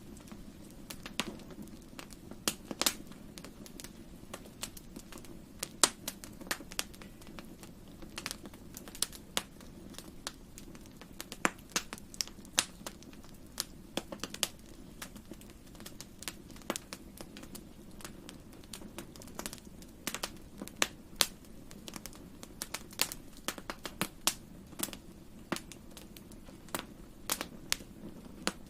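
Fireplace fire crackling and popping: irregular sharp snaps, a few of them loud, over a steady low rumble of the flames.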